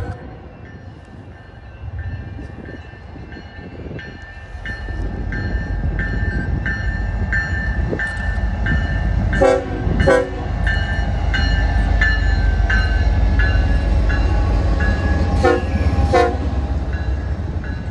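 Union Pacific intermodal freight train passing close by, its horn cutting off right at the start. Then the train's rumble builds after a few seconds and stays loud. A short ringing ding repeats about every 0.6 seconds, and two pairs of sharp metallic clanks come about midway and near the end.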